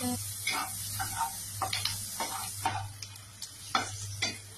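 Sliced shallots, garlic and red chilies frying in hot oil in a wok, sizzling while a spatula stirs and scrapes them around the pan in short irregular strokes. The sizzle grows fainter about three seconds in.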